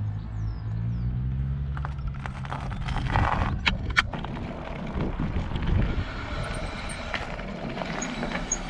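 A motor vehicle passing close by, its low engine note falling and fading over the first two seconds, followed by steady low road and wind rumble with a couple of sharp knocks about three to four seconds in.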